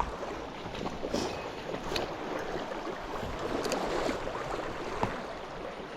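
Small mountain stream flowing steadily, with a sharp click at the very start and a few fainter clicks over the next few seconds.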